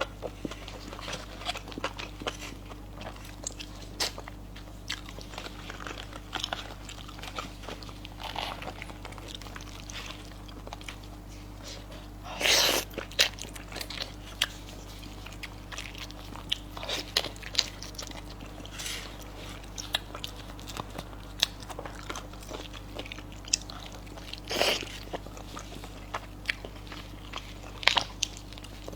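Close-miked eating: irregular chewing, biting and wet mouth clicks, with a few louder bursts about twelve and twenty-five seconds in, over a steady low hum.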